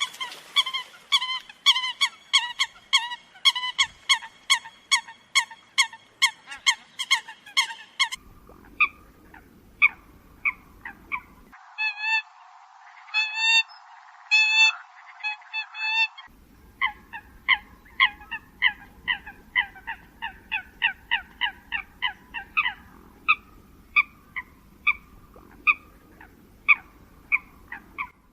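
Eurasian coot calling: a long series of short, honking notes at about two a second. The sound quality changes abruptly a few times, as a recording spliced from several sections.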